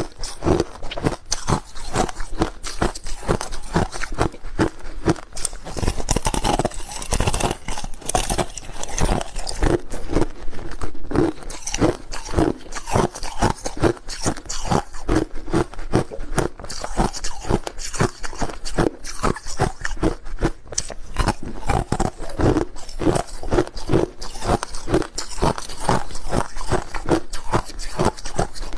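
Crushed ice being chewed close to the microphone: a dense, continuous run of sharp crunches, several a second.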